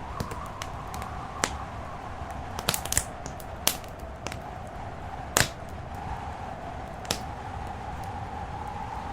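Wood fire crackling with sharp, irregular pops, the loudest about five seconds in, over a steady low rumble and a faint whistle that slowly wavers in pitch.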